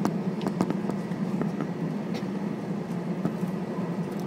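Airbus A320 cabin noise while taxiing: a steady low engine hum with scattered sharp rattling clicks.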